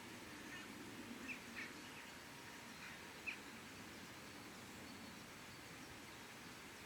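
Small birds giving several short chirps during the first half, faint over a steady low background rumble.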